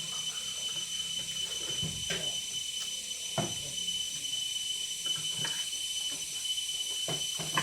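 Steady hiss with a faint high whine underneath, broken by a few short soft clicks and smacks of people eating.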